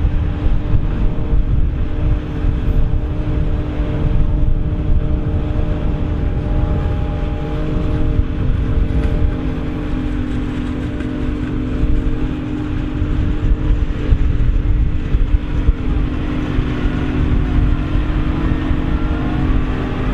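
Heavy diesel farm machinery running steadily, a constant droning hum over a heavy low rumble.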